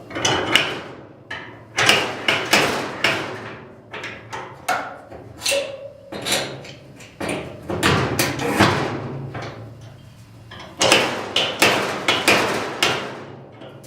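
Dent-pulling on a crumpled steel truck hood: repeated sharp metal clanks from a slide hammer pulling on welded-on studs, one or two blows a second, each ringing briefly. There is a short pause about ten seconds in.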